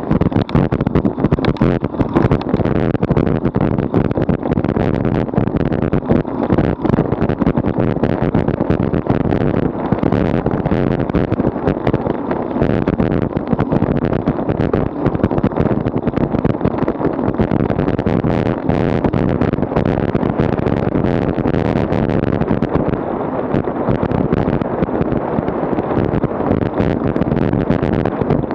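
Heavy wind buffeting on a bicycle-mounted action camera's microphone at high speed downhill: a loud, steady rush with constant ragged crackle.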